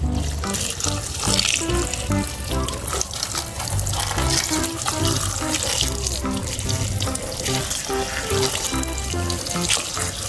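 Water running from a tap in a steady hiss, likely as muddy toys are rinsed, with background music playing over it.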